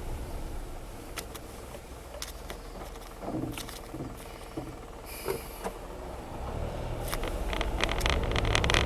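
Driving noise heard from inside a Honda Zest Spark kei car: low engine and road rumble with scattered small clicks and creaks, growing louder over the last few seconds.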